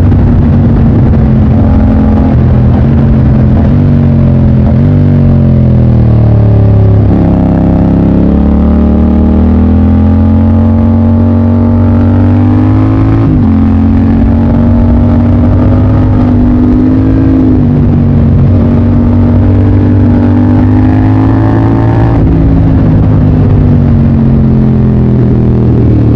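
Motorcycle engine on the move, its revs rising and falling, with sudden drops in pitch a few times, about a third of the way in, around halfway and near the end, as gears are changed.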